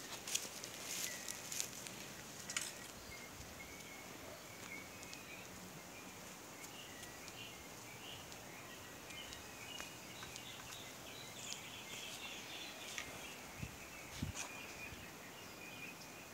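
Faint outdoor background with birds chirping on and off in the distance. A few sharp clicks sound in the first couple of seconds.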